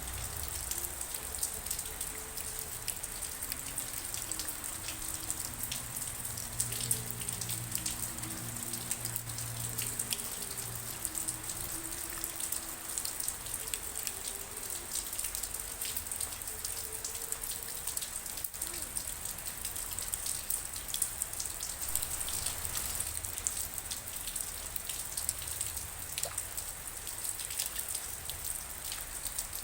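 Steady rain with dense patter of drops striking a surface. A faint flute melody of low notes sounds under it through roughly the first half, then fades out.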